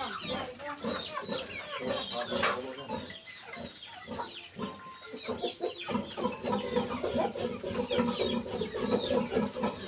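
A flock of chickens clucking, with many short high peeps throughout, like those of chicks with a hen. The lower clucking gets louder and more continuous about halfway through.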